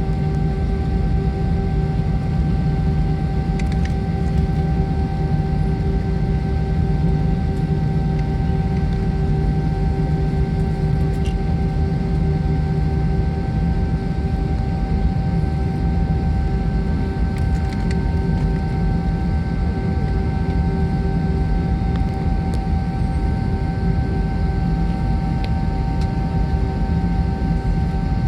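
Jet airliner cabin noise on the ground before takeoff: a steady low rumble with several constant whining tones from the engines and aircraft systems.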